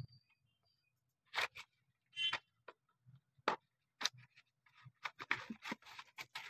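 A gift's packaging being handled and opened: scattered short crinkles, clicks and rustles, busier near the end.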